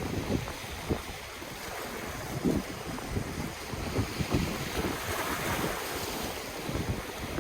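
Ocean waves washing onto the shore, a steady surf hiss that swells about five seconds in, with wind gusting across the microphone in low irregular rumbles.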